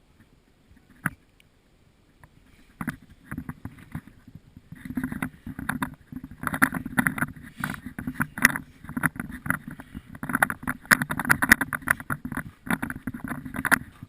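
Footsteps crunching and pushing through deep snow, a dense irregular run of crunches that starts about three seconds in and grows louder and busier.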